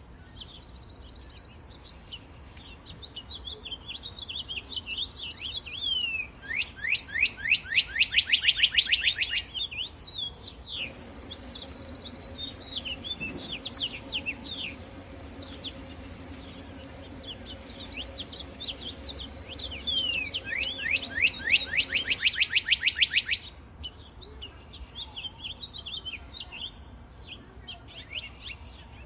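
Several birds chirping and singing. Twice, a fast, evenly repeated trill rings out loudest, once about a quarter of the way in and again near the end. Through the middle, a steady high-pitched hiss runs under the chirps.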